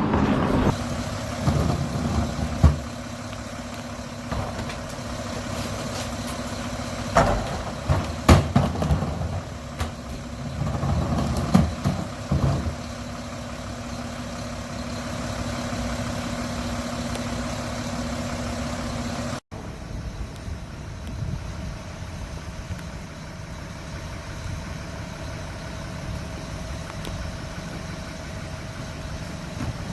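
Garbage truck engine running at idle, with several sharp clunks in the first half. About two-thirds of the way in the sound changes abruptly to a different steady engine hum.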